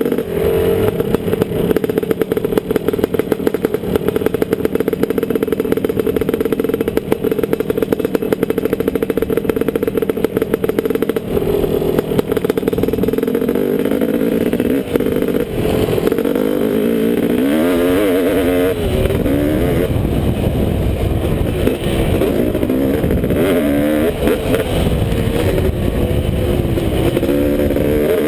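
Honda CR500 single-cylinder two-stroke motocross engine in a KTM frame, running hard at fairly steady revs, then revving up and down repeatedly through the second half as the bike is ridden.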